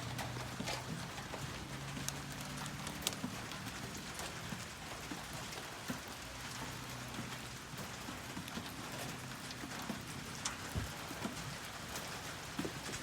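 Steady rain falling, with scattered sharp drop hits on a surface.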